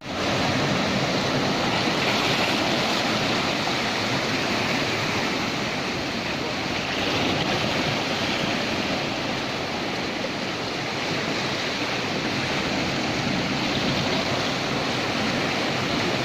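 Steady, loud rush of moving water, with no distinct wave breaks.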